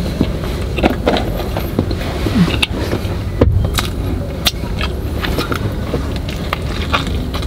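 Close-up chewing and mouth sounds of a man eating a bite of a juicy burger, with scattered short wet clicks, over a steady low hum of a car idling with its air conditioning running.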